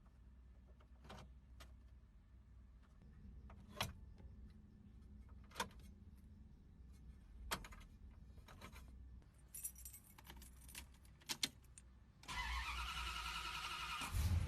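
Scattered clicks and a jangle of keys, then a classic car's starter cranks for about two seconds and the engine catches with a low rumble near the end.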